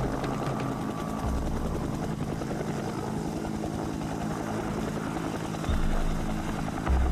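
Helicopter rotor sound effect, a fast steady chopping, with deep low booms about a second in and twice near the end.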